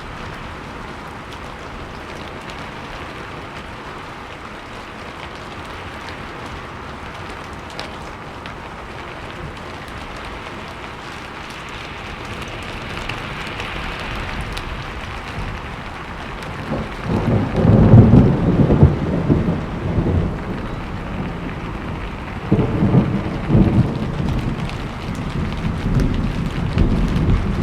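Steady rain falling, joined about two-thirds of the way in by rolls of low thunder rumbling, the loudest just past the middle and another starting a few seconds later.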